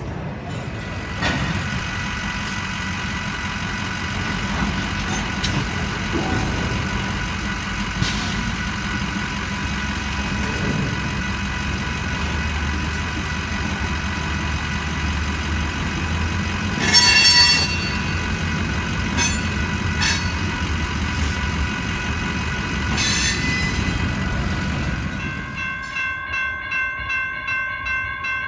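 Railroad crossing bells ring steadily while a Union Pacific local freight train rumbles past, with two brief, loud, high-pitched bursts in the middle. Near the end, a crossing's electronic bell rings on its own in quick, even strokes, about three a second.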